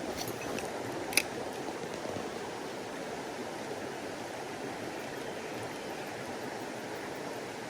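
Mountain stream flowing steadily, with one sharp click a little over a second in.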